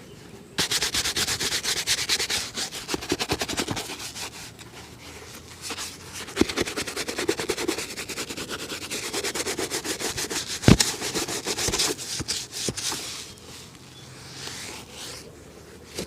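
A leather shoe being brushed hard in quick back-and-forth strokes during a shoe shine, in two spells with a short pause between. A single sharp knock about two-thirds in.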